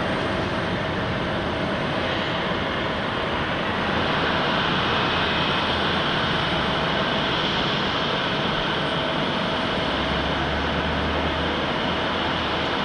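Jet airliner engines running: a steady broad roar with a faint steady whine, swelling slightly about four seconds in.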